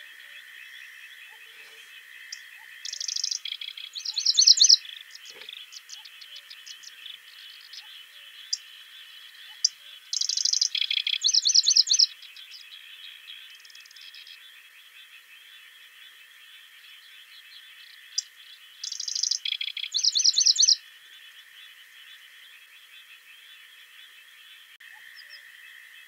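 A songbird singing three short songs of rapid, trilled high notes, each about two seconds long and spaced roughly eight seconds apart, over a faint steady background.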